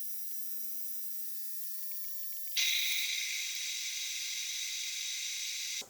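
Machine tool motor running with a steady high whine and hiss. It steps up sharply louder about two and a half seconds in, then cuts off suddenly near the end.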